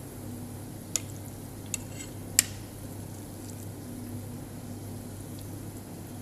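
Cabbage and tuna patties frying in hot oil in a pan: a steady sizzle over a low hum, with three sharp clicks of a spatula against the pan between about one and two and a half seconds in.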